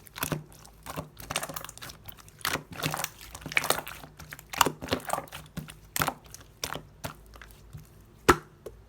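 Slime being squeezed and worked by hand, giving irregular wet clicks, pops and crackles, with one sharp, loud pop near the end.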